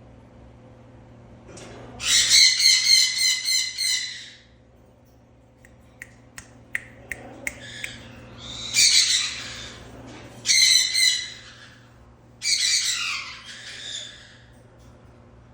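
Cockatoo giving four loud, harsh, pulsing squawks, with a run of short sharp clicks between the first and second.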